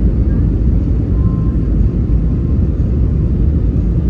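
Steady low cabin roar inside an Airbus A320 in flight: airflow over the fuselage and its two CFM56-5B engines.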